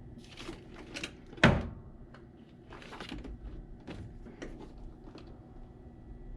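Scattered knocks, clicks and rustles of handling, with one sharp loud bang about a second and a half in.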